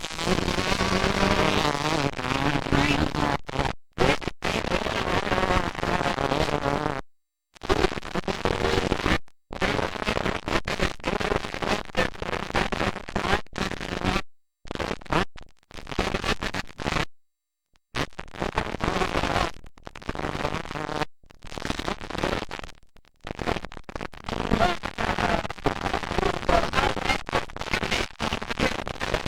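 Motocross dirt bike engines running, heard as a harsh, crackling roar. The sound drops out abruptly to silence several times, around 7, 9, 14 and 17 seconds in.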